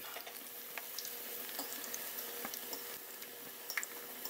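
Flour-and-cornmeal-breaded okra deep-frying in a pot of hot oil: a steady sizzle with scattered small pops and crackles.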